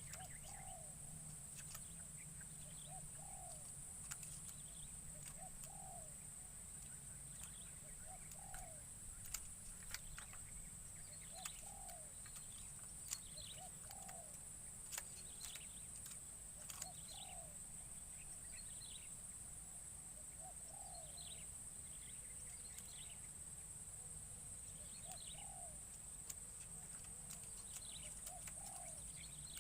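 Spotted dove (terkukur) cooing over and over, a short soft call about every one and a half seconds, under a steady high-pitched drone and faint chirps from other birds.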